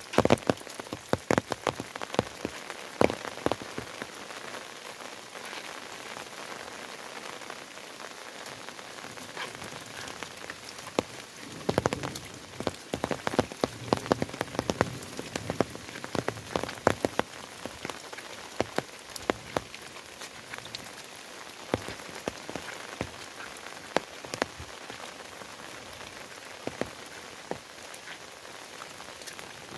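Steady rain falling, with many sharp, irregular drops landing close by and standing out above the even hiss.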